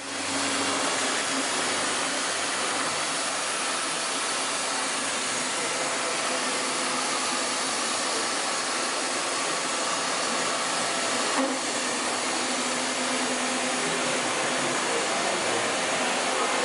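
Steady whirring, hissing machine noise with faint steady tones, plausibly the 1997 OKK MCV660 CNC vertical mill running under power. There is one brief knock about eleven seconds in.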